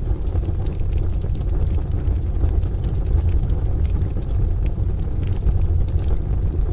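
Wood stove fire crackling in scattered sharp pops over a steady low rumble of rain and distant thunder.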